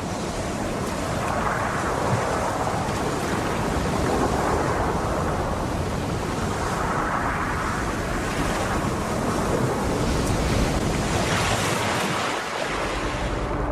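Rushing ocean water, like surf, swelling and ebbing every two to three seconds.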